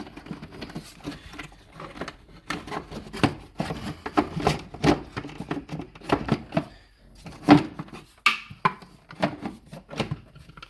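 Plastic air filter box being handled and fitted over a new air filter: irregular knocks, clicks and rubbing of plastic parts, with one sharper knock about two-thirds of the way through.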